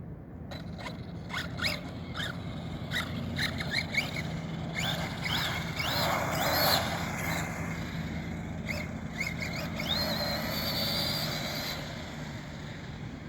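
Arrma Kraton RC truck's brushless electric motor whining up in pitch in several short bursts of throttle, then rising to a high held whine for about two seconds as the truck runs at speed. Clicks and rattles come early on.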